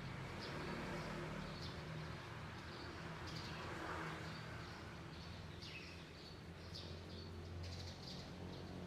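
Small birds chirping: repeated short, high chirps at irregular intervals, over a steady low background hum.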